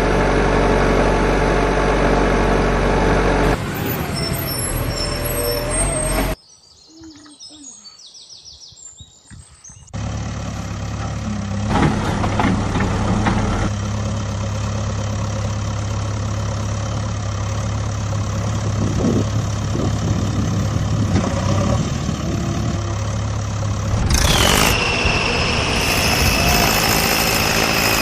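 Mini tractor's motor running steadily under a pulling test. It changes abruptly several times, drops out for about three seconds early on, then resumes, and a high steady whine joins near the end.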